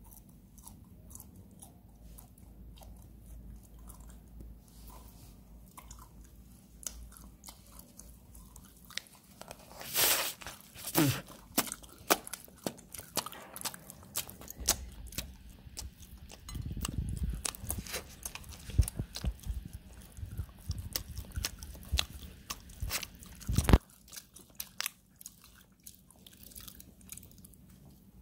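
Donuts being eaten close to the microphone: bites, chewing and crunching, with clicks and knocks of handling. Most of it falls between about ten and twenty-four seconds in, ending with one loud knock.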